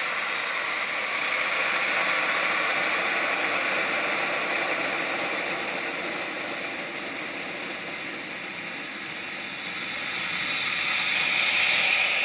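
Compressed air hissing steadily out of a DeWalt D55146 air compressor, beginning to die away near the end as the pressure runs down.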